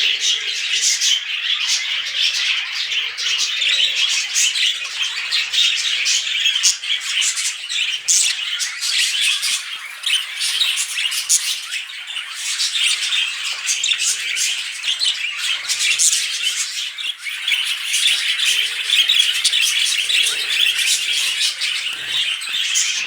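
Budgerigars chattering without pause, a dense run of quick chirps, clicks and squawks.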